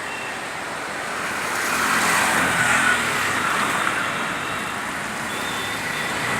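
Road traffic noise: a car's engine and tyres, getting louder about two seconds in and then easing off.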